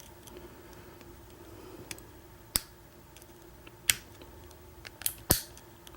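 Sharp, scattered metallic clicks of a lock pick and tension wrench working the pins of an American 1100 padlock held in a false set, with a few louder clicks about halfway through and near the end.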